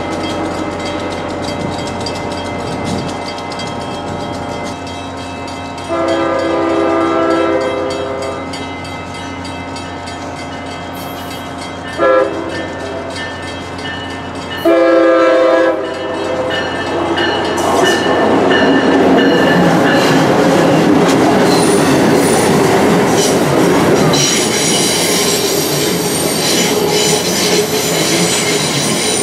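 Amtrak Acela Express sounding its horn three times: a long blast, a short one, then another long one. It then rolls through the station, the rumble of the train growing as it passes, with high-pitched wheel squeal on the curve in the last few seconds.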